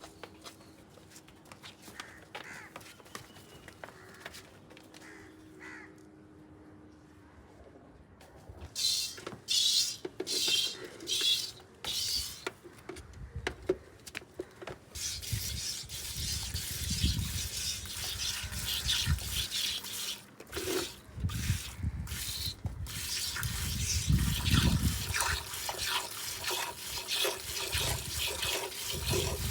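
Streams of milk squirting into a container as a cow is milked. The squirts come one by one at first, about nine seconds in, and turn into a denser, continuous hiss from about fifteen seconds on.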